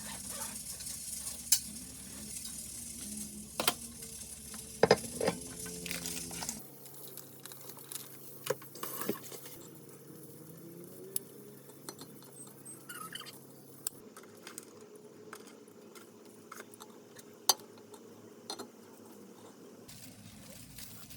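Kitchen cooking sounds: utensils clinking and scraping against pots and dishes, over a sizzling hiss that stops abruptly about six and a half seconds in. Afterwards only scattered clinks over a quiet, steady hum.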